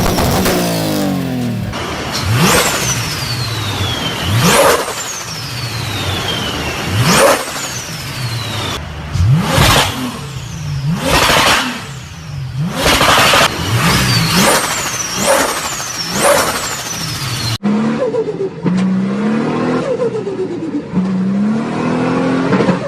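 Turbocharged car engine revved sharply again and again. After each rev comes turbo flutter and a high whistle falling in pitch as the turbo spools down. About two-thirds of the way through, the sound cuts to another turbocharged car whose engine pitch climbs in steps as it accelerates.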